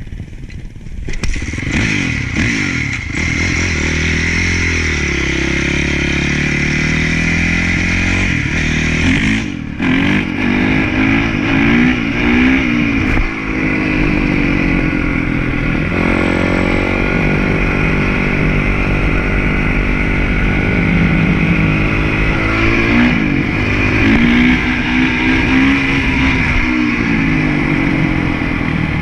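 Honda CRF450 motocross bike's engine revving hard and easing off over and over as it is ridden, its pitch rising and falling through the throttle changes, with a brief sudden dip about nine and a half seconds in.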